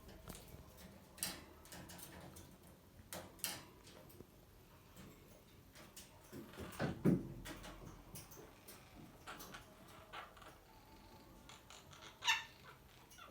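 Monk parakeets moving about: scattered light clicks and taps, a louder knock about seven seconds in, and one short rising chirp near the end.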